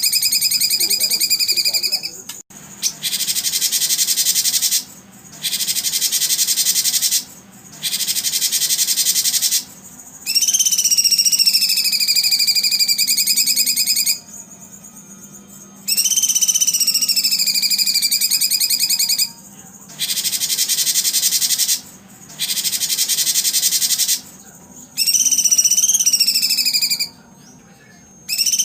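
Recorded songbird singing played for caged competition birds: dense high-pitched chattering trills in stretches of a few seconds that cut off abruptly, with short gaps between them, and a whistled tone that glides slowly down and up.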